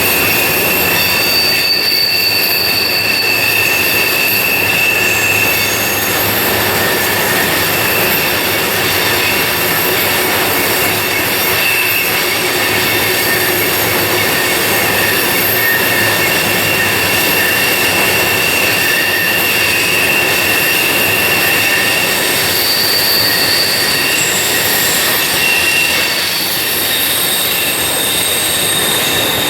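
Freight cars rolling through a tight curve, their wheel flanges squealing in several high, steady tones that come and go over a constant rumble of wheels on rail.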